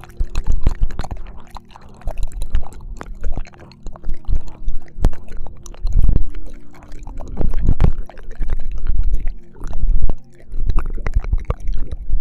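Wet ASMR ear-licking mouth sounds close to a binaural microphone: irregular licks, smacks and squelches in uneven clusters.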